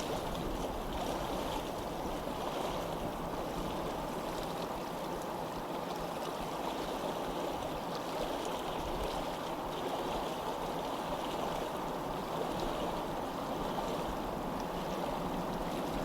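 Steady rush of flowing water, like a stream running over rocks, even in level throughout.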